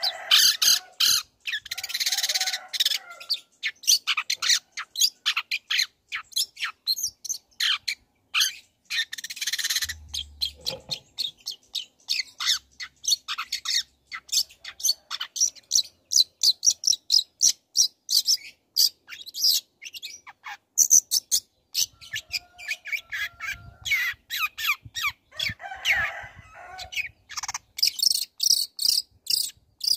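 Long-tailed shrike (cendet) singing a fast, varied run of short sharp chirps, mixed with a few harsher rasping phrases.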